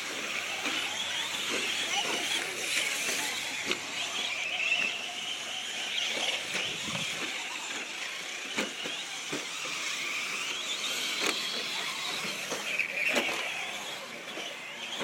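Traxxas radio-controlled short course trucks racing: their motors whine, rising and falling in pitch as they speed up and slow down, with several sharp knocks through the run.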